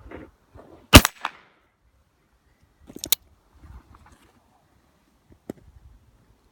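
A percussion cap pops sharply on an 1858 Remington stainless steel black powder revolver about a second in: a #10 cap fails to set off the powder charge, a misfire. A quick cluster of sharp clicks follows about two seconds later, and one faint click comes near the end.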